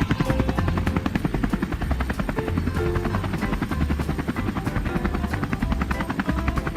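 Helicopter rotor sound effect: a fast, steady chopping of about ten beats a second, with soft background music underneath.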